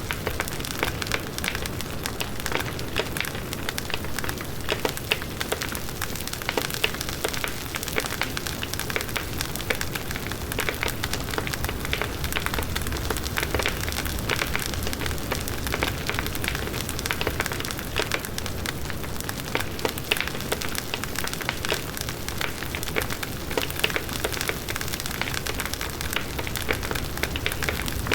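Large wood bonfire burning steadily: dense, continuous crackling of burning wood over the low rush of the flames.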